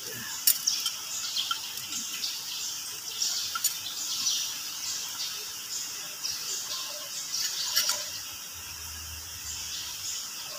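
Small birds chirping over and over, quick high downward-sweeping calls, with a few sharp light metal clicks from bolts being handled and threaded on a cast-iron housing.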